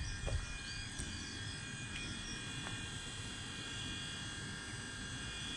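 Electric passenger train standing at the platform below, giving a steady hum with several high whining tones over a low rumble.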